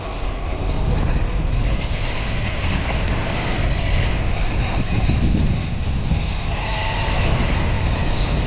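Sur-Ron Ultra Bee electric dirt bike being ridden: steady wind rush on the microphone with tyre and drivetrain noise and a faint motor whine.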